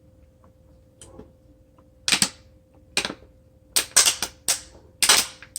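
Crunching of crisp food, salad or breaded fried mushrooms, being bitten and chewed right at the microphone: a run of about seven loud, crackly crunches starting about two seconds in.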